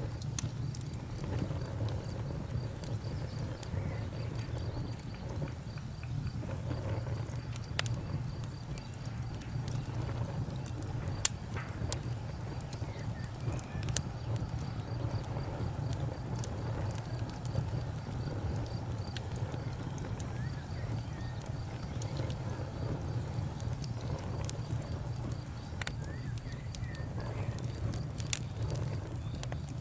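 Campfire burning with a steady low rumble and scattered sharp crackles and pops, the loudest pop about eleven seconds in.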